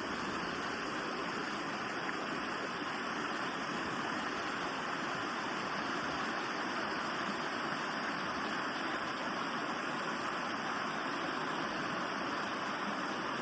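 Running water of a creek, a steady, unbroken rush.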